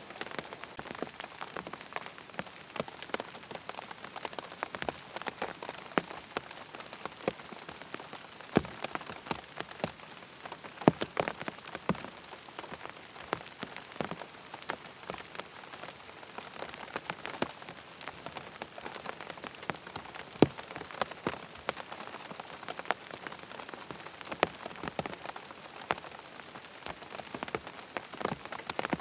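Steady rain falling, with many irregular sharp taps and pops of drops striking close by.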